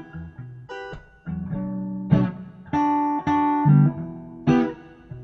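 Guitar playing a song's instrumental introduction: chords plucked and strummed about every half second, each ringing on until the next.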